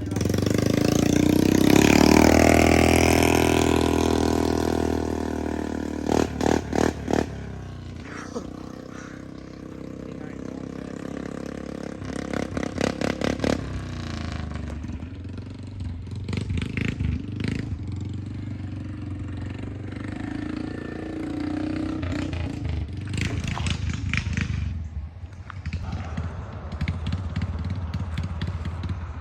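Straight-piped four-wheeler (ATV) engine running just after a cold start. It revs hard about two seconds in and settles back, then idles with several short, sharp throttle blips.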